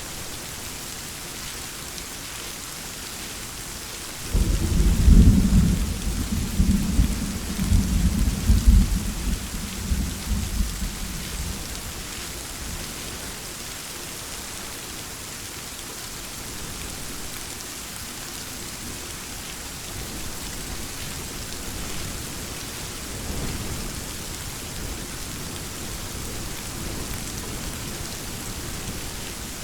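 Steady heavy rain hissing, with a loud clap of thunder that breaks in suddenly about four seconds in and rumbles away over the next several seconds. A fainter, distant rumble of thunder comes near the end.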